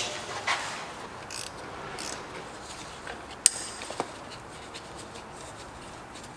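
Hand tools and car parts being handled: a few brief rustles, then a sharp clink about three and a half seconds in and a softer knock half a second later.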